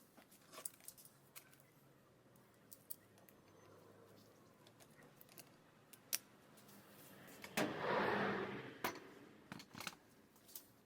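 Scattered clicks and light taps of small tools and parts being handled, with a louder rustling burst lasting about a second near the end.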